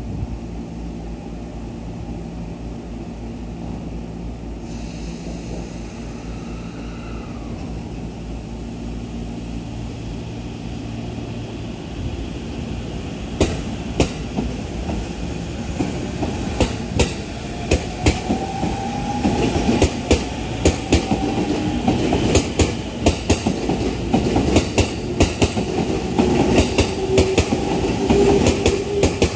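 An E231-0 series electric commuter train starting away from the platform: after a steady low hum while it stands, with a brief hiss about five seconds in, it moves off about twelve seconds in, its motor whine rising in pitch as it accelerates and its wheels clicking over the rail joints faster and faster as the cars pass.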